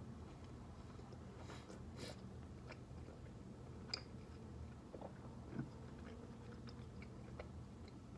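Faint chewing and biting of a cheeseburger: soft wet mouth sounds and scattered small clicks, over a steady low room hum.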